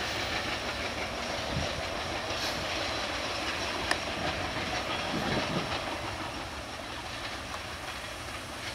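PT INKA-built passenger coaches of a broad-gauge express rolling away along a curved track: a steady rumble and hiss of wheels on rail, with a few sharp clicks over the rail joints. It grows a little fainter in the second half as the last coach recedes.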